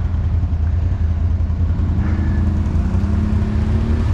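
ATV engine running with a steady low drone, its pitch rising as the throttle is opened about halfway through.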